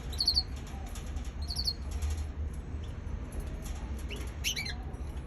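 Young canary chirping in short, high-pitched peeps: two quick runs of three or four notes in the first two seconds, then a few falling chirps about four and a half seconds in.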